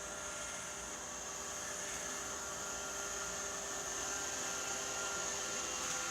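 Robot vacuum cleaner running with a steady whir and high hiss, growing slightly louder.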